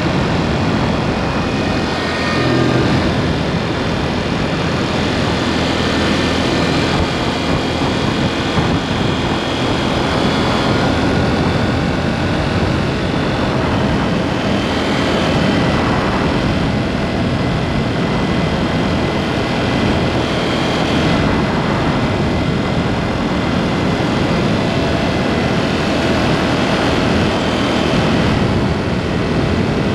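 KTM 790 Duke's parallel-twin engine running under way through an aftermarket SpeedPro Cobra SPX exhaust, picked up close from under the pillion seat. The revs rise and fall from time to time.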